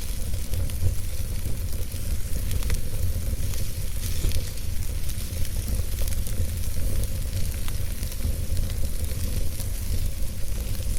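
Log fire burning in a fireplace: a steady low rumble and hiss of the flames, with scattered small crackles and pops from the burning wood.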